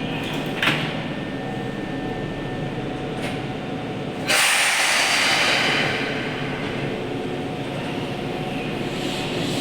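Keihan 6000 series train in an underground station. There is a sharp clunk, then about four seconds in a sudden loud hiss of compressed air that fades over a second and a half, over the steady rumble of the train as it gets ready to pull out.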